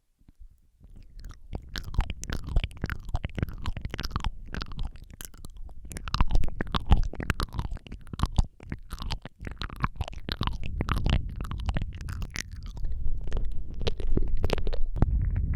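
Close-miked ASMR mouth sounds on a Rode microphone: rapid wet tongue clicks, lip smacks and licking, with a deep rumble from mouth and breath right at the microphone. They start about a second in and run on densely.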